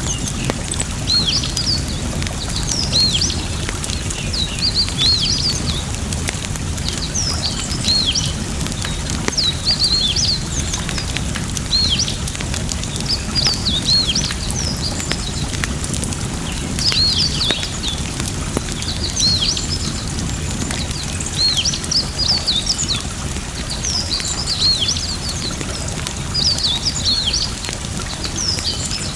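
Small birds chirping in short, quick calls, repeated in clusters throughout, over a steady low rush from a campfire-and-running-water ambience.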